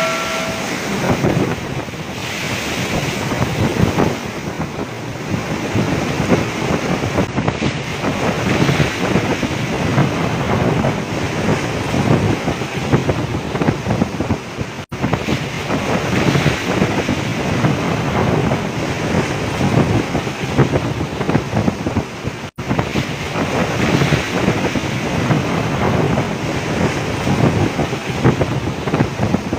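Storm wind blowing hard across the microphone over heavy seas surging and breaking around a fishing boat, a dense, steady rushing noise. It cuts out very briefly twice, near the middle and about two thirds of the way through.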